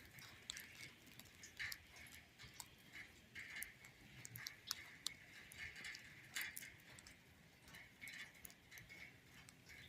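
Faint, irregular ticking and clicking.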